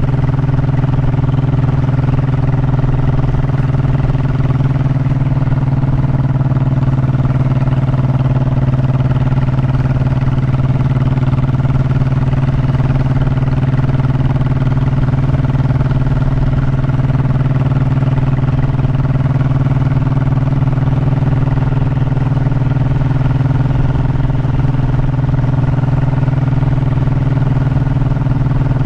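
Honda motorcycle engine running at a steady, unchanging pitch throughout, with a rough low rumble underneath.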